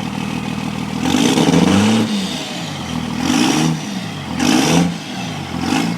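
Vehicle engine idling through its exhaust, not yet straight-piped, then revved four times: one longer rev about a second in, followed by three quicker blips of the throttle.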